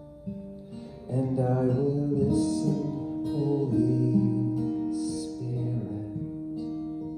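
Music: slow acoustic guitar with long held notes, growing louder about a second in.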